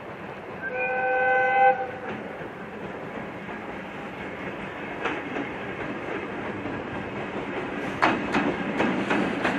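Chichibu Railway limestone freight train: its electric locomotive sounds one short horn blast about a second in, then the train rumbles on with wheels clicking over rail joints, the clicks getting louder near the end.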